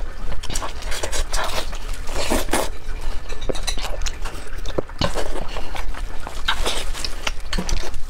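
Close-miked eating sounds: wet chewing and lip-smacking on fatty braised pork, with gulps from a bottled drink partway through, over a low steady hum.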